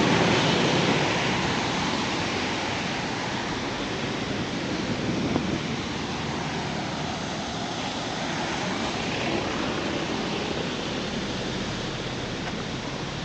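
Steady rushing noise of road traffic, louder in the first second or so as a vehicle passes and then settling to an even roar.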